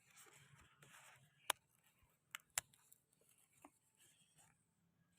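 Near silence with faint rustling and a few sharp clicks, the loudest about a second and a half in.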